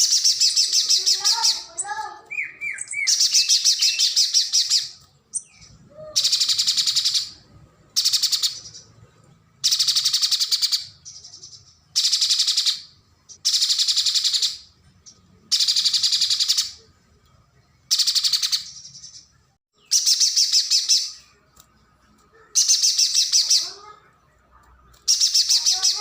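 Pijantung gunung (a spiderhunter) singing: loud, high, rapid trilled phrases about a second long, repeated roughly every two seconds, with a few softer, lower chirps between them about two seconds in and near the end.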